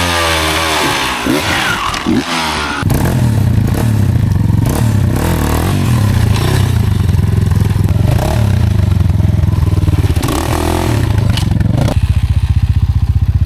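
Off-road motorcycle engine revving up and down in quick bursts for the first few seconds, then running loud and steady at low revs. Near the end it settles into an even, rapid low pulsing.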